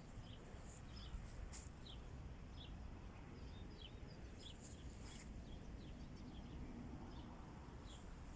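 Faint bird chirps: short calls scattered about every second, over a low steady rumble.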